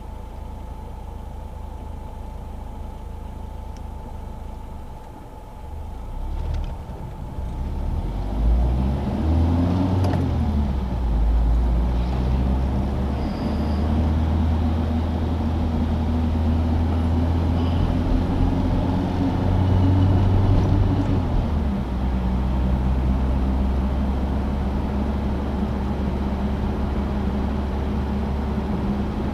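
Citroën DS four-cylinder engine driving. For the first few seconds there is only a steady low rumble, then about eight seconds in the engine note climbs as it pulls. It runs steadily, then drops a step a little past two-thirds of the way through and carries on steady.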